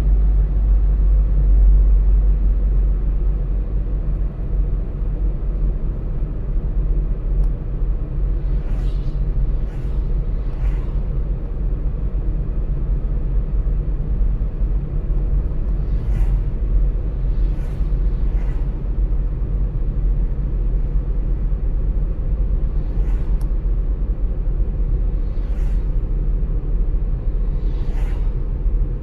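Car driving at steady speed: a constant low rumble of engine and tyre noise, with several brief faint hissing swishes scattered through it.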